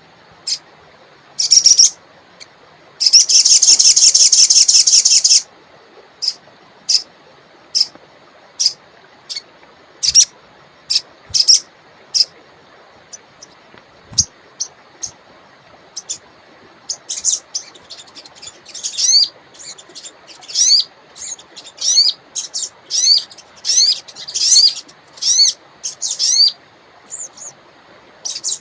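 Songbird called a sogon singing: sharp high chirps scattered through, a dense rapid trill lasting about two seconds starting about three seconds in, then from about halfway a fast run of repeated chirps, several a second. A faint steady hiss lies underneath.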